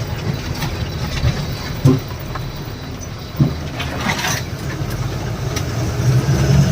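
A vehicle engine running steadily with a low rumble, with a few light knocks and a brief hiss a little past the middle.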